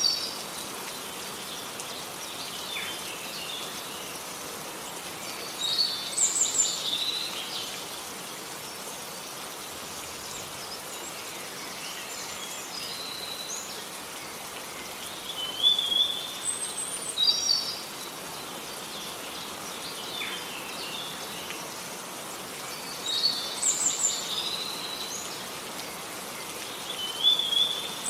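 Steady rain falling, with a songbird singing short bursts of high, quick chirping notes every several seconds.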